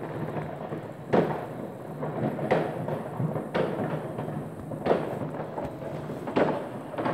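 Many distant fireworks going off: five sharp, echoing bangs a second or so apart over a continuous rumble and crackle of other fireworks.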